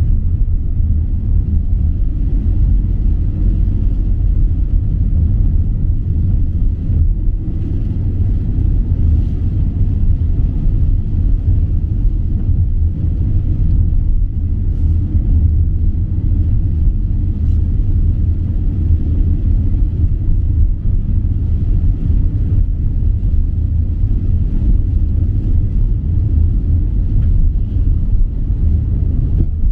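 Steady low rumble of a car driving, engine and road noise with no change in speed.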